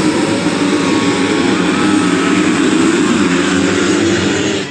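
Several motocross motorcycle engines running together, their pitch rising and falling as the riders work the throttle.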